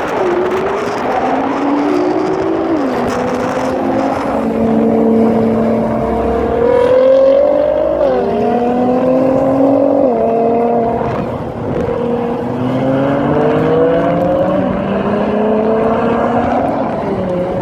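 A high-performance engine accelerating hard through the gears: its pitch climbs steadily, then drops sharply at each upshift, several times over.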